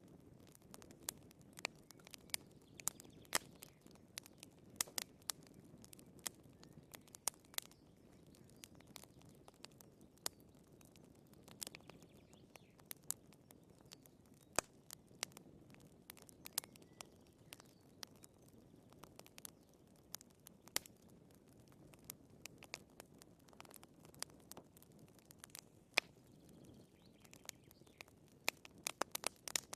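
Firewood burning in a fireplace, crackling: irregular sharp pops and snaps, some louder than others, over a faint low background of the flames.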